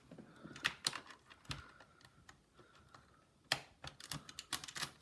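Small irregular clicks and taps of a precision screwdriver working at a laptop case screw that won't come out, which the owner suspects is broken. The clicks come faster near the end.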